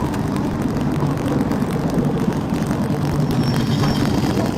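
Motorcycle engine running steadily while riding, under a dense rush of road and wind noise.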